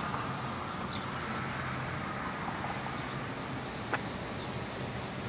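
Steady outdoor evening ambience: a high insect chorus over a low, even hum, with a single sharp click about four seconds in.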